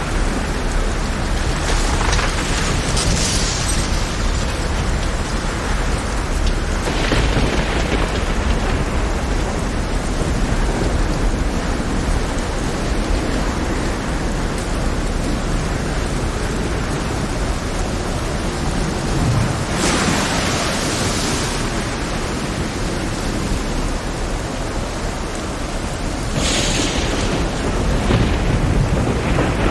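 Steady heavy rain over a deep, continuous rumble, with four brief swelling surges of hiss about two, seven, twenty and twenty-six seconds in.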